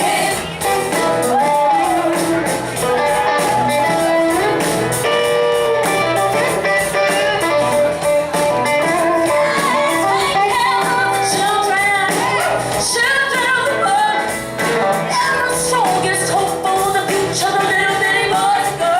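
Live band performance: a woman sings lead over guitar, bass and drums, with a steady beat.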